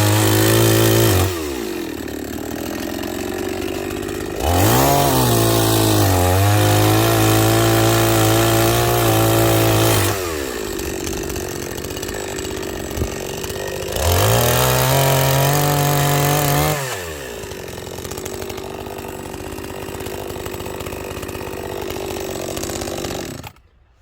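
Two-stroke chainsaw revving to full throttle three times and dropping back to idle between bursts, then shut off near the end.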